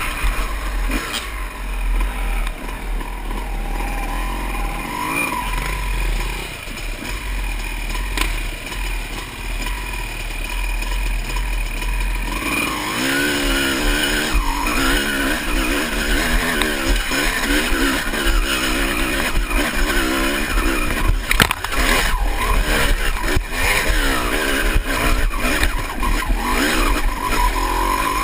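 Honda CR250 two-stroke dirt bike engine running hard off-road. From about halfway its revs rise and fall repeatedly as the throttle is worked, over a steady low rumble. There are a few sharp knocks a little past two-thirds through.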